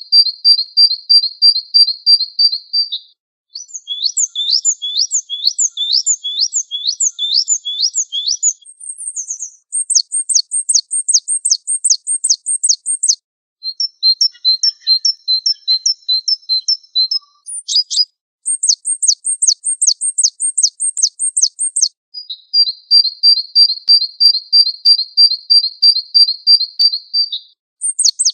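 Recorded songbird song in a bird-master track: the song of a white-eye (pleci) spliced with songs of canaries, blackthroats and other small birds. It runs as a string of high, fast repeated-note phrases (rapid trills, then runs of sharp falling whistles), each a few seconds long and cleanly cut into the next, with the same phrases coming back.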